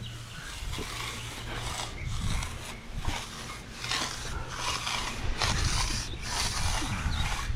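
Repeated scraping strokes of a hand tool worked across the surface of fresh concrete, one rasping stroke about every second, over a low rumble.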